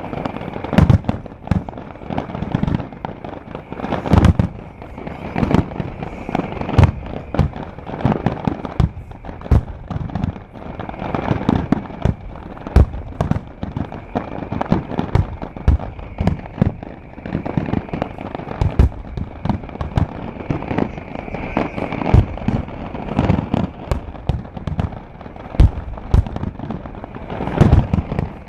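Fireworks finale: aerial shells bursting in rapid, unbroken succession, several sharp bangs a second.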